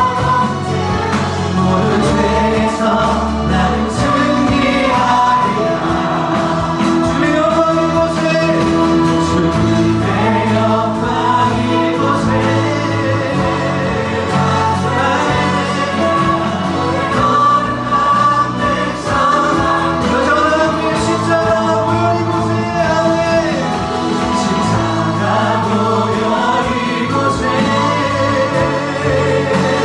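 A group of voices singing a Christian worship song in chorus over instrumental accompaniment with sustained bass notes, continuous and steady in level.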